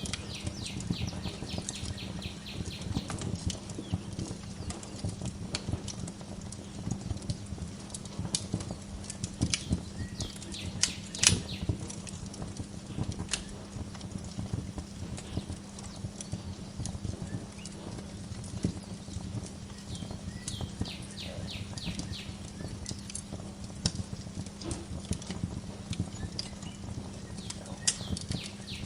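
Wood fire crackling and popping steadily in a fireplace, with a low steady rumble beneath. A bird's rapid trill of repeated notes comes in near the start and again about two-thirds of the way through.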